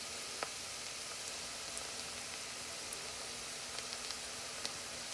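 Chopped shallots and garlic sizzling in melted butter and olive oil in a stainless steel pot: a steady hiss with scattered small pops as they cook down toward translucent.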